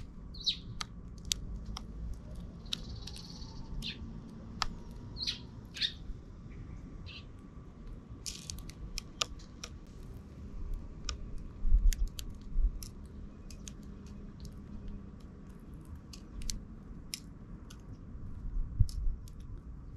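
Sparrows giving short chirps a few times in the first six seconds, amid many sharp little clicks and ticks throughout. A few low thumps come about twelve seconds in and near the end.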